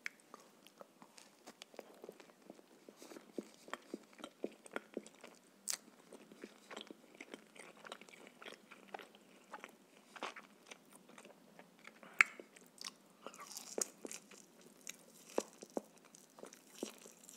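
Close-miked chewing and biting of grilled shashlik (skewered meat), bread and baked potato, with many short mouth clicks; the loudest is a sharp click about twelve seconds in.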